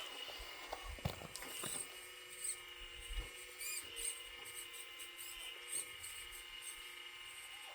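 Small electric motors of a 1/12-scale metal RC model excavator whining steadily, with scattered clicks and short high squeaks from its moving metal parts.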